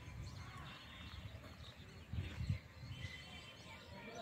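Small birds chirping in the background, many short high chirps over a low rumble, with a brief low thump a little past halfway.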